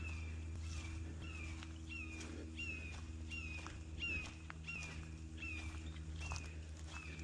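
A bird calling over and over, a short falling chirp about once or twice a second, with scattered sharp clicks.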